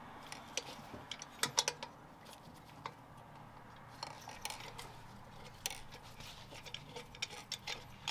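Scattered light metallic clicks and clinks of hand tools and parts being handled during engine reassembly, with a few sharper taps about a second and a half in and again near six seconds.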